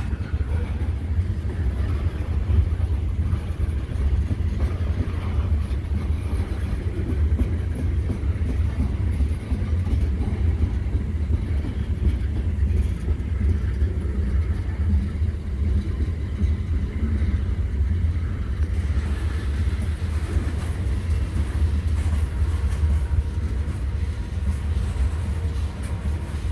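Diesel-electric locomotives of a freight train running under power, giving a steady low engine rumble with no change in pitch.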